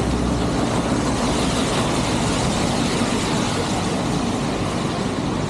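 Motorcycle riding at steady speed: a constant low engine drone under a heavy, even rush of wind and road noise.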